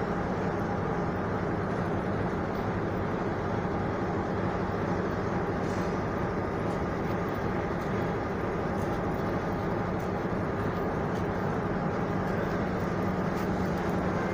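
Steady low hum with an even wash of noise from a stationary passenger train standing idle, unchanging throughout.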